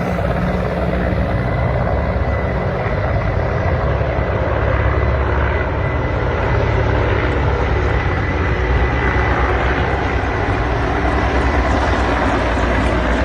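Mil Mi-8-family transport helicopter running loud and steady: a fast low beat of the main rotor blades over a dense rushing engine noise, with a thin steady whine.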